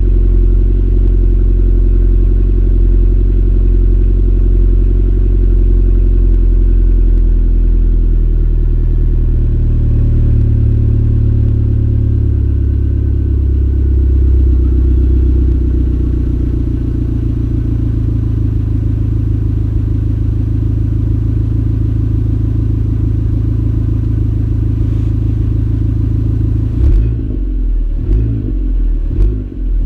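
Abarth 500's turbocharged 1.4-litre four-cylinder idling through a Ferrita catback exhaust after a cold start, the exhaust note shifting a little partway through. Near the end come a few quick throttle blips.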